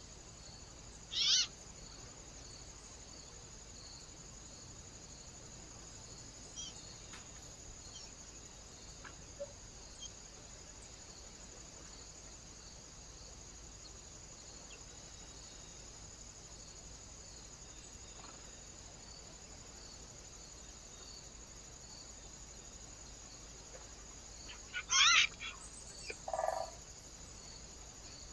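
Short bird calls over a steady high hiss: one brief call about a second in, then a quick cluster of calls near the end followed by a lower, pulsed call.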